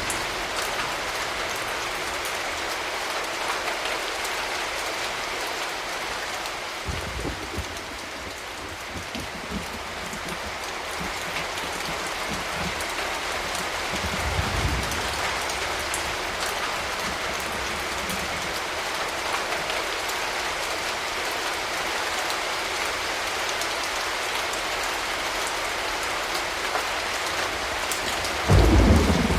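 Steady rain falling and pattering on surfaces. A few brief low thumps break through, the loudest shortly before the end.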